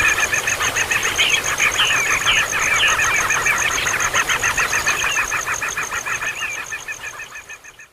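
Baby birds calling noisily with rapid, evenly repeated high cheeps many times a second, joined by a few sharper rising squeaks in the first half. The calls fade out near the end.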